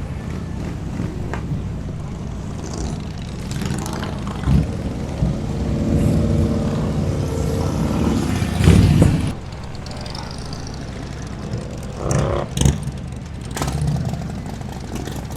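Motorcycle engines running in a busy parking lot, building to a louder pass that peaks about nine seconds in, then dropping suddenly to a lower rumble.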